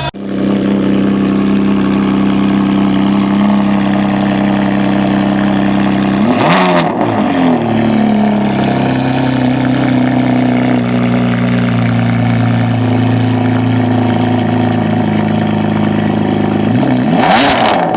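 A car engine running at a steady speed, its pitch sweeping briefly about six and a half seconds in and again near the end, then settling lower.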